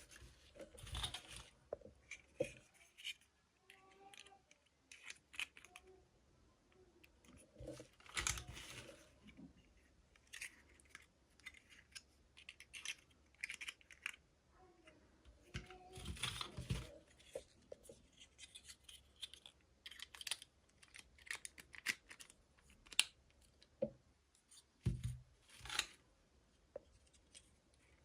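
Toy packaging being opened by hand: plastic and paper crinkling and tearing, with many small clicks and taps and a few longer rustles.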